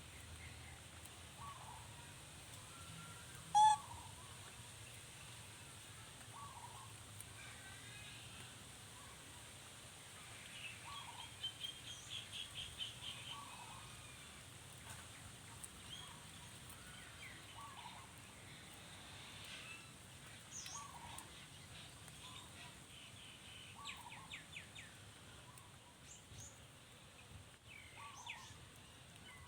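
Faint bird calls: a short call repeated about every two seconds, a quick run of chirps near the middle, and one brief louder squeak about four seconds in.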